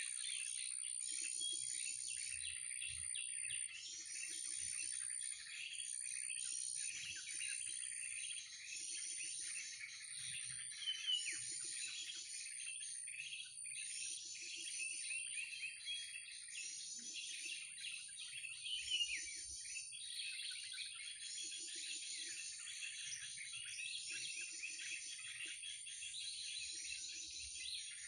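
Bird-trapping lure recording of mixed small-bird calls ('krucukan' lure): a dense chorus of chirps and trills repeating in a regular cycle of about two seconds, with a steady high whine above it.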